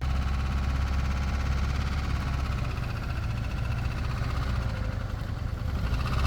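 A motor vehicle's engine running steadily, loud and low, cutting in abruptly at the very start.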